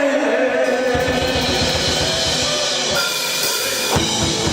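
Live band playing: a held note from voices and instruments, then about a second in the drum kit comes in with rapid bass-drum hits and crashing cymbals.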